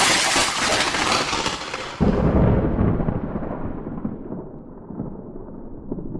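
A thunderclap and its rolling rumble. A crackling crash comes first, then a sudden deep boom about two seconds in, and the rumble slowly dies away, growing duller as it fades.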